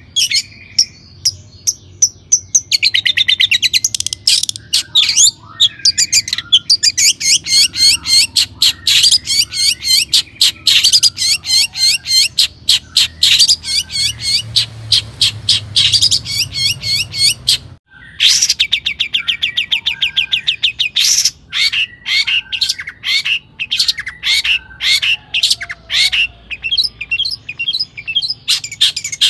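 Long-tailed shrike (cendet) singing a fast, chattering song of rapid repeated high notes, with a momentary break about two-thirds of the way through.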